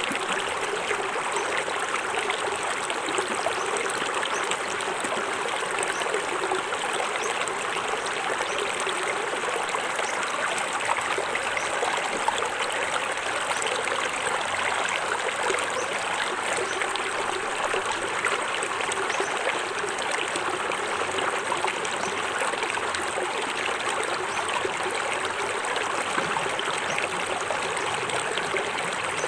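Small forest waterfall splashing and running steadily into a stream.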